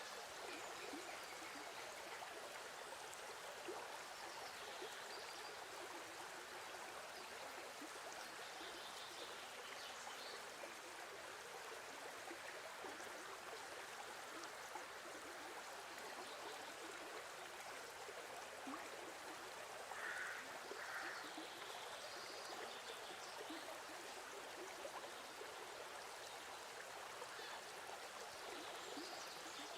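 Faint, steady running-water sound like a flowing stream, with a few faint higher chirps now and then.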